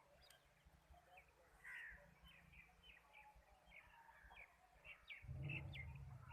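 Birds chirping in a quiet rural setting, many short, quick calls one after another; a low rumble comes in suddenly about five seconds in.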